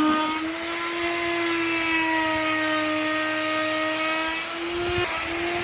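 Electric power tool motor running at a steady speed with a whine, its pitch drifting slightly, briefly dipping about five seconds in.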